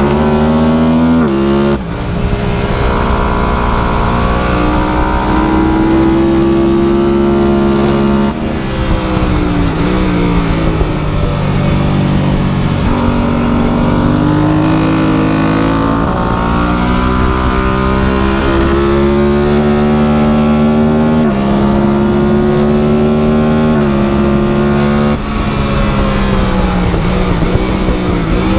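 An engine running hard, its pitch climbing slowly and then dropping suddenly several times, as with gear changes or throttle lifts.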